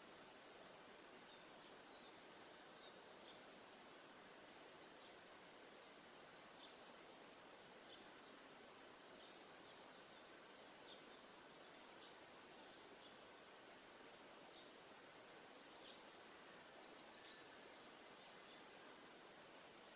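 Faint, scattered chirps of small birds over a steady background hiss.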